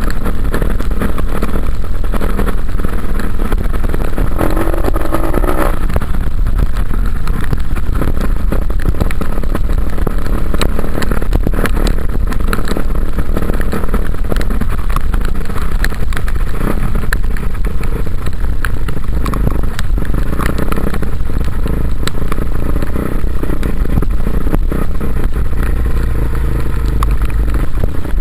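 Dirt bike engine running under way, revving up briefly about five seconds in, over a heavy low rumble and scattered clattering.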